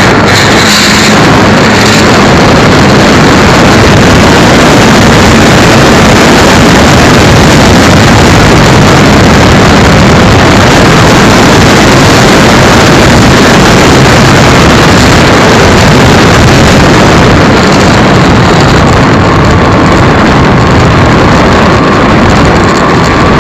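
Radio-controlled Cessna 182 model airplane heard through its own on-board micro camera: a loud, steady, distorted rush of motor and wind noise, with a faint steady whine appearing near the end.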